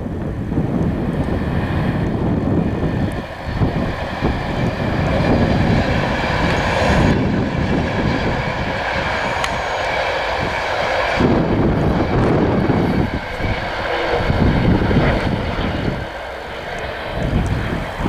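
East Coast InterCity 225 high-speed electric train, a Class 91 locomotive with Mk4 coaches, passing at speed: a loud, continuous rushing of wheels on rail with a rough, unsteady low rumble and a faint steady whine above it.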